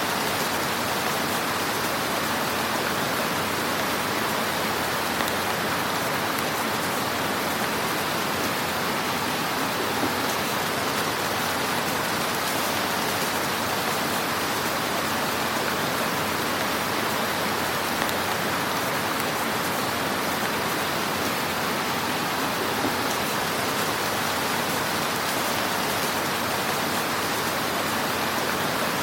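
Wood fire in a fireplace crackling steadily: a dense, even hiss of small crackles with a few slightly louder pops.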